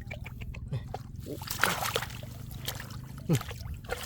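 Shallow floodwater splashing and trickling in irregular short bursts, over a steady low hum.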